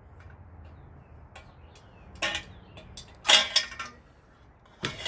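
Metal parts clinking and clanking as they are handled: a few light ticks, then three sharp clanks with a short ring, about two, three and a half and five seconds in, the middle one the loudest.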